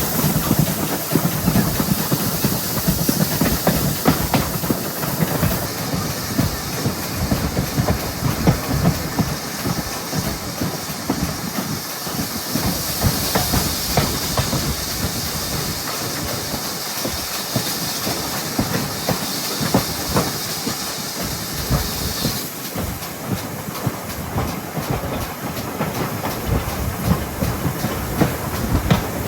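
GWR 57xx-class pannier tank steam locomotive 7754 on the move: a steady hiss of steam over a fast clatter of wheels on rail. A higher hiss comes in about 13 seconds in and cuts off suddenly about 22 seconds in.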